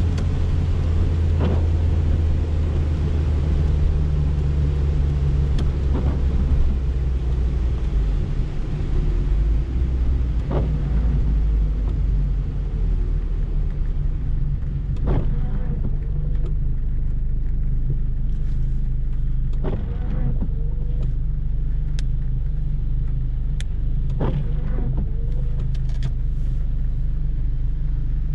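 Interior sound of a 1990 Peugeot 205 XS's 1360 cc carburetted four-cylinder engine, a steady low hum whose note drops about eight seconds in as the car slows, then stays low and even. A brief swish, likely the windscreen wipers, comes about every four to five seconds, with light ticks of rain on the glass later on.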